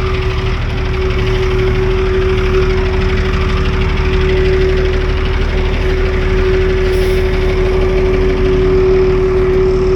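Semi truck's diesel engine running, with road noise and a steady whine.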